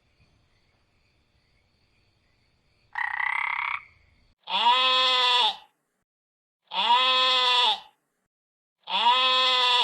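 An animal calling: a short, rough call about three seconds in, then three long, pitched cries about two seconds apart. Each cry rises and then falls in pitch.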